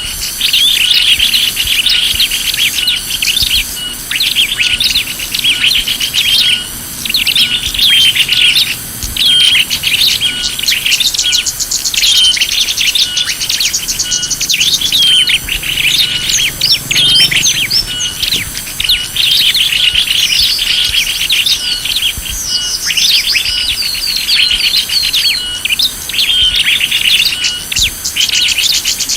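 Bird lure recording of small songbirds chirping and trilling densely and without a break, many calls overlapping, over a fast regular high pulsing about twice a second.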